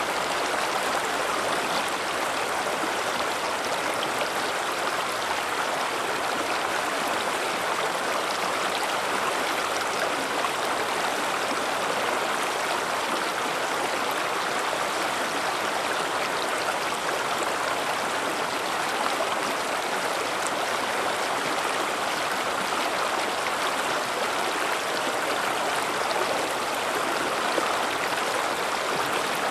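River water rushing and babbling steadily over rocks, an even rushing noise without let-up.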